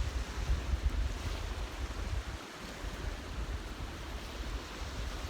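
Wind buffeting the microphone in uneven gusts of low rumble, over a steady rushing hiss; the rumble drops away for a moment about two and a half seconds in.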